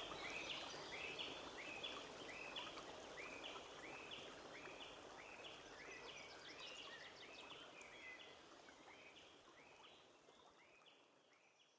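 A bird singing a quick repeated phrase of short rising notes, about two a second, over the steady rush of a forest stream. The whole sound fades out to silence near the end.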